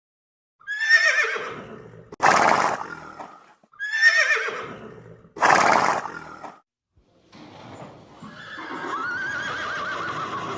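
Horse neighing. A wavering, falling neigh followed by a harsh, breathy burst is heard twice, then a longer neigh rising and falling in pitch comes near the end.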